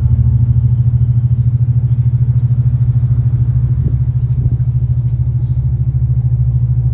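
Ferry's diesel engines running under way: a loud, steady low rumble with a fast, even throb.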